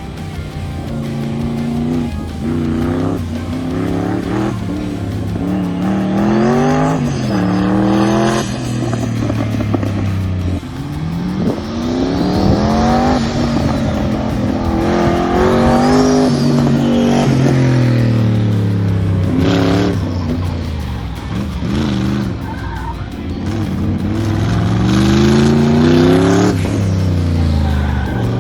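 LS V8-swapped BMW E36 being driven hard through an autocross course: the engine revs up and drops off again and again between corners, with the tires squealing at times.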